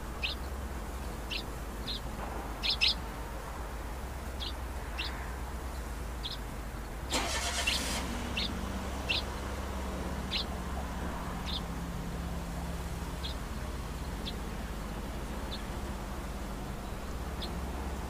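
A bird repeats short, single chirps about once a second, growing fainter toward the end, over a steady low rumble of distant city traffic. About seven seconds in, a loud rushing noise lasts roughly a second, followed by a low steady hum.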